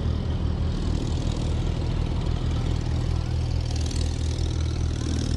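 Car engine idling steadily, an even low hum that holds the same pitch throughout.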